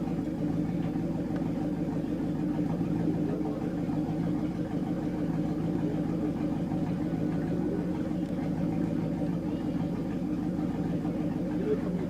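Chris Craft performance boat's inboard engine idling steadily at an even pitch.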